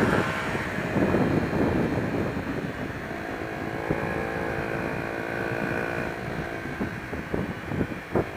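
Honda XR125's single-cylinder four-stroke engine running while the motorcycle is ridden, with wind rushing over the microphone. For the first few seconds the wind dominates; from about three seconds in the engine note holds steady.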